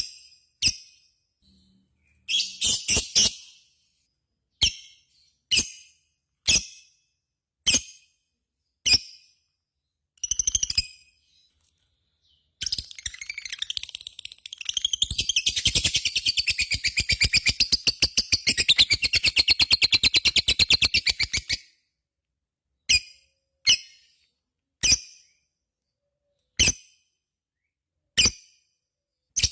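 Lovebird calling: sharp, high single chirps about once a second, a quick cluster of chirps near the start, then a long rapid chattering trill of about nine seconds in the middle, the prized 'ngekek panjang' (long ngekek). The single chirps then resume.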